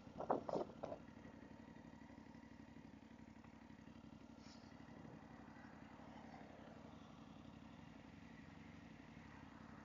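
Motorcycle engine running steadily while riding, heard faintly as a low hum, with a few short knocks in the first second.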